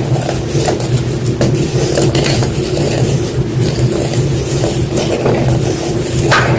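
White gym chalk crunching and crumbling, a dense run of crackles and small snaps over a steady low hum.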